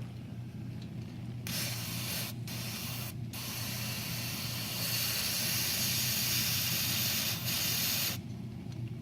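Aerosol carburetor cleaner spraying onto a seized diesel injector to soak it free: two short squirts, then one long spray of about five seconds, over a steady low hum.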